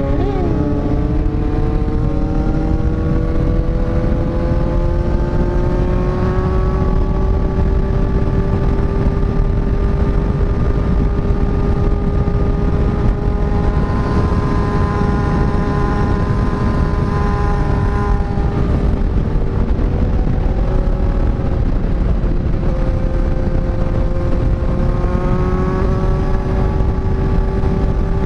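Kawasaki inline-four sport motorcycle engine held at high revs under way, its pitch climbing slowly, easing off briefly past the middle and rising again near the end, with heavy wind noise on the microphone.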